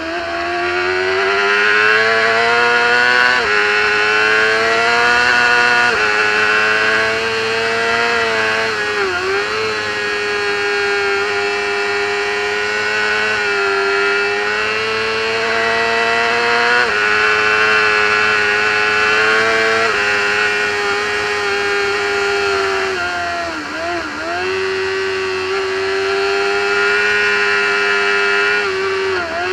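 Racing motorcycle engine at high revs, heard onboard with wind rush, the pitch climbing and then dropping sharply at each upshift about every three seconds. About nine seconds in and again around twenty-four seconds in the revs dip briefly and recover, as the throttle is shut and reopened.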